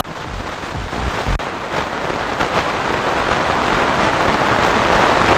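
FM radio static: a steady hiss from a receiver with no clear station, growing gradually louder.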